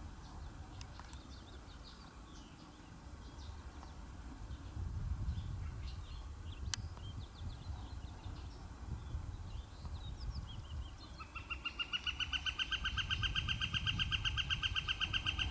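Low wind rumble with scattered short bird chirps. About eleven seconds in, a louder, rapid pulsing trill at one steady pitch starts and keeps going.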